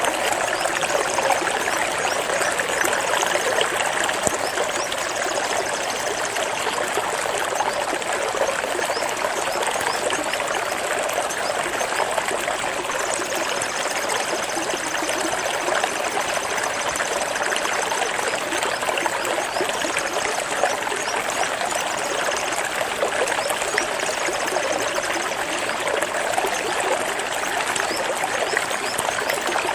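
Flowing water: a stream running and trickling steadily, with a faint high-pitched trill for a few seconds near the middle.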